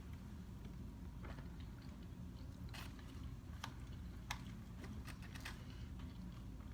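A person chewing and smacking while eating seafood, with scattered small clicks and crackles over a steady low hum.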